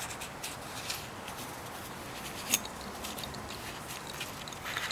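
Faint scattered clicks and light taps over a steady hiss, with one sharper click about two and a half seconds in: small handling noises from working with the oil filter by hand.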